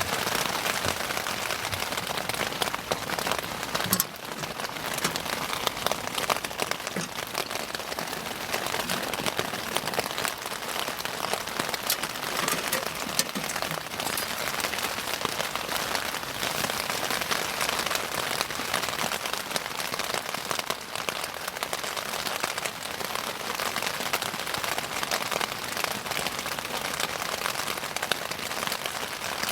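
Wood bonfire burning with a dense, steady crackle of many small pops, with one sharper pop about four seconds in.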